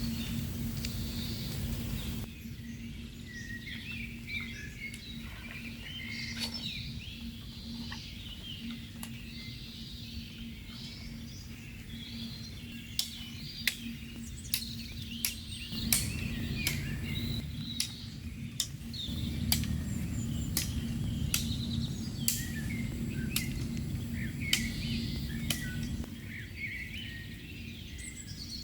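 Small birds chirping over a low steady hum, with scattered sharp taps and clicks from about halfway through.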